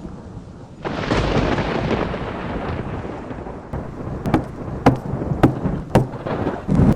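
Thunderclap crashing about a second in and rumbling away over steady rain, followed by a run of sharp knocks.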